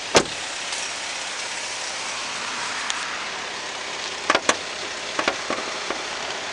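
Holden Captiva's 2.4-litre Ecotec four-cylinder engine idling with the bonnet up, a steady hiss-like engine-bay noise. A loud sharp click comes about a quarter second in, and a few lighter clicks and knocks come about four to five and a half seconds in.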